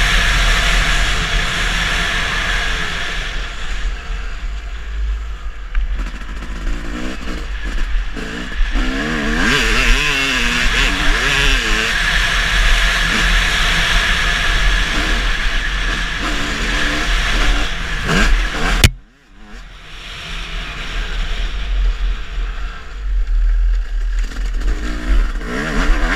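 Motocross bike engines revving up and down as they ride the track, the pitch rising and falling again and again. About two-thirds of the way through, a sharp click is followed by a sudden break of about a second before the engine sound returns.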